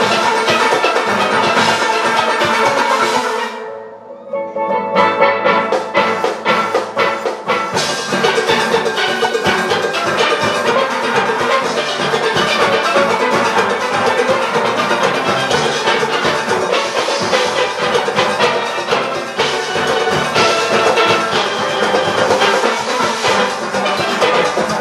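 Large steel orchestra playing: many steelpans over drums. About three and a half seconds in, the band cuts off abruptly, comes back with a run of sharp accented hits, and then plays on in full.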